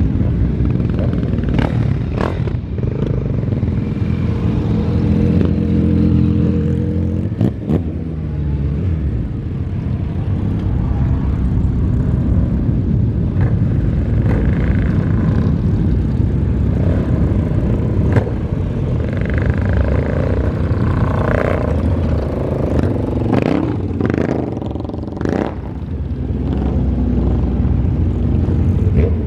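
Motorcycle engine running while riding: a steady low rumble whose pitch shifts now and then, with a few sharp clicks.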